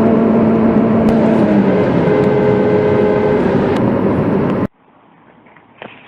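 Volvo V40 engine running hard at steady high revs, with heavy road noise. About 4.7 s in, the sound cuts off abruptly to quiet, with a few scattered clicks and knocks.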